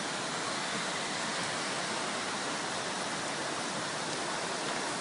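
Flash floodwater rushing in a steady, unbroken torrent.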